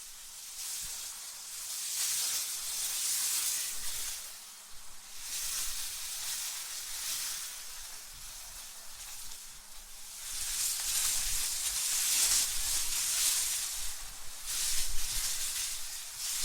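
Wind blowing in gusts, a hissing rush that swells and dies away every few seconds, with a faint low rumble under the stronger gusts.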